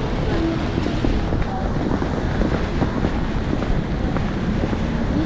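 Steady low rumble of wind buffeting the microphone, mixed with the hum of passing traffic.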